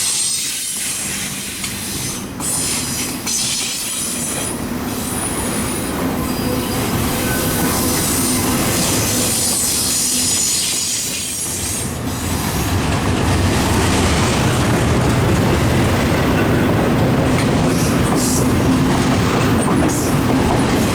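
Norfolk Southern intermodal freight train rolling slowly past, its railcar wheels clacking over the rail joints with a high-pitched wheel squeal. The rumble grows louder about twelve seconds in.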